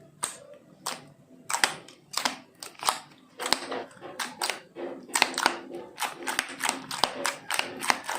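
Old soft slimes being kneaded and squished together by hand, giving sharp clicks and pops. They come about every half second at first and quicken to several a second by the second half.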